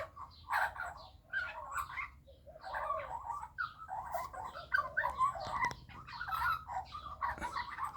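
Baby Australian magpie babbling: a long string of short chattering, warbling calls, one after another with brief pauses.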